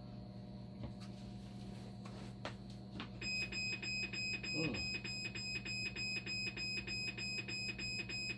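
A few sharp clicks, then about three seconds in a dialysis machine's alarm starts beeping: a rapid, evenly repeating high beep over a steady low hum.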